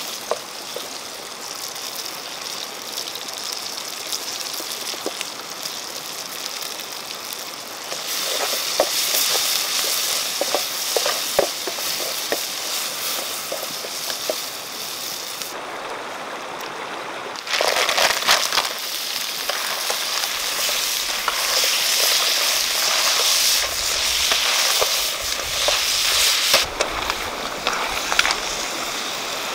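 Chopped red chilies sizzling in hot oil in a wok, stirred with a wooden spatula that scrapes and taps against the pan. The sizzle grows louder about eight seconds in and again a little past halfway.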